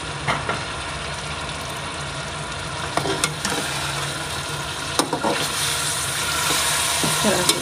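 Mutton and spices frying in oil in a metal pot, sizzling steadily as freshly added ground tomatoes start to fry in. A metal spatula clicks and scrapes against the pot a few times, and the sizzle grows louder in the last couple of seconds as it is stirred.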